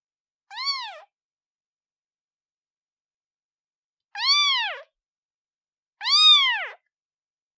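Newborn kitten meowing: three high, thin calls that rise and then fall in pitch, with long silent gaps between them. The first call is short and about a second in. The other two are longer and come near the end, the last one the loudest.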